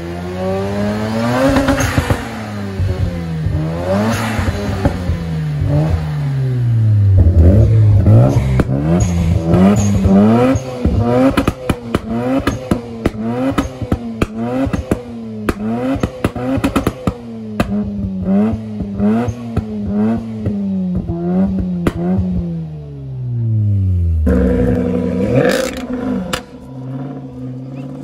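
Sports car engine revved again and again, its pitch rising and falling in long sweeps and then quick blips, with sharp crackles between them. Near the end it gives way to a steadier engine note.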